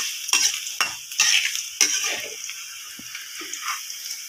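Sliced okra and green chillies sizzling in hot coconut oil in a metal wok, a metal spoon scraping and stirring against the pan several times. The okra is well browned and nearly done, and the frying hiss fades gradually.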